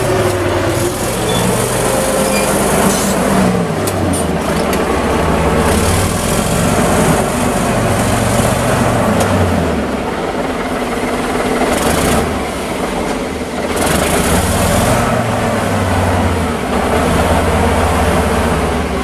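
Heavy machine's engine working, its pitch rising and falling repeatedly as the load changes, with bursts of hiss over it.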